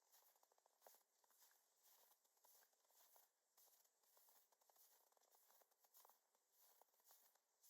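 Faint, steady footsteps crunching in snow, about two crackly steps a second.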